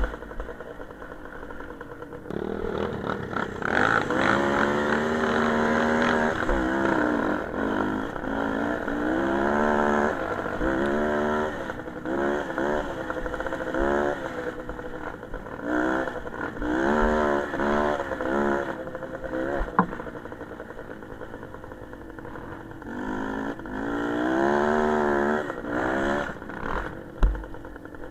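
Small motorcycle engine on the move, its pitch climbing and dropping again and again as the throttle is opened and closed. There is a sharp click about two-thirds of the way through and a thump near the end.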